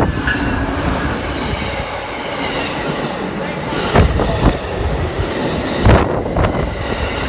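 Amtrak passenger train passing close by at speed: a steady rumble and clatter of wheels on rail, with a couple of louder thumps about four and six seconds in.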